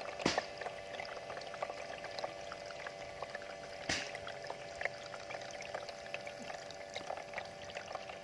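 Water from a bamboo fountain spout trickling and pouring into its basin, with a steady splashing and many small drips, and two louder splashes, one near the start and one about four seconds in.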